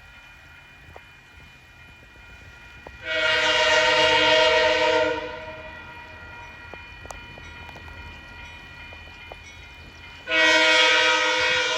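Diesel locomotive air horn sounding two long chord blasts, each about two seconds long, the second starting near the end.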